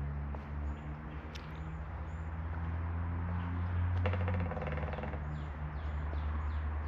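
Woodland birds calling: a series of faint high, downward-sliding chirps repeating in the second half, with a short rapid rattle about four seconds in, over a steady low rumble.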